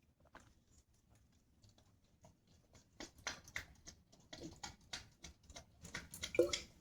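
Dog lapping water from a bowl: a run of short wet clicks, faint and sparse at first, then steady at about three laps a second from about three seconds in, growing louder near the end.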